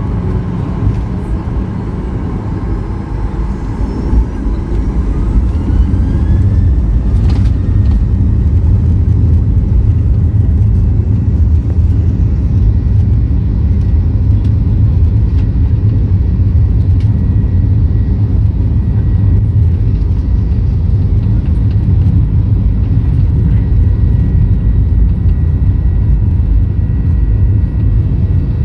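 Boeing 737-800's CFM56 jet engines heard from inside the cabin, spooling up to takeoff thrust with a rising whine while the noise grows louder, then a loud, steady low rumble of the takeoff run and climb. A single sharp click about seven seconds in.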